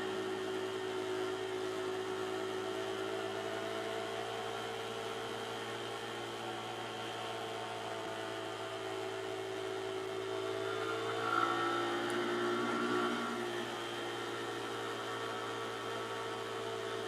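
Pit bike engine running at a steady cruise as the bike rides along, with a brief shift in engine pitch about eleven to thirteen seconds in.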